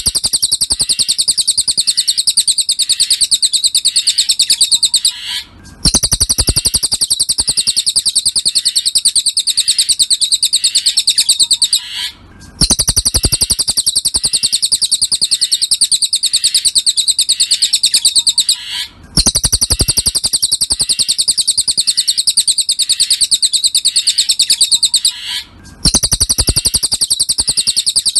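Cililin songbird's rapid, high-pitched chattering trill, played as a masteran training recording. It comes in phrases about six seconds long, each broken off by a brief pause and then repeated.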